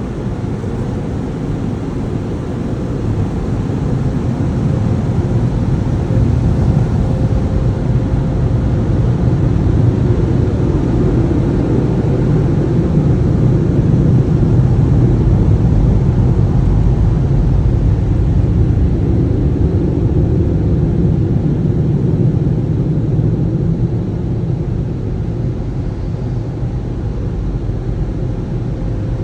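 Automatic car wash machinery running: a loud, steady rumbling rush that builds over the first few seconds, holds strongest through the middle and eases a little near the end.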